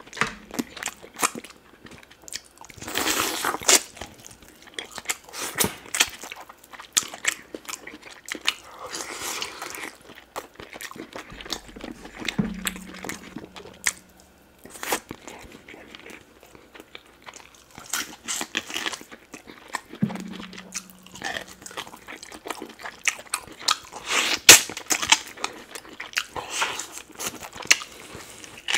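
Close-miked eating sounds of oxtail pepper soup and rice eaten by hand: irregular wet chewing and mouth smacks, with oxtail meat being gnawed off the bone near the end.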